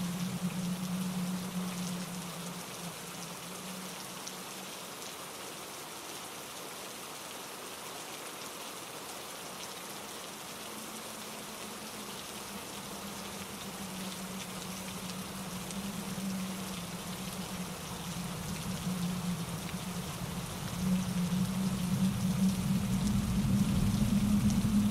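Steady rain falling, heard as an even hiss of drops, over a low rumble that swells and fades and grows louder about 21 seconds in.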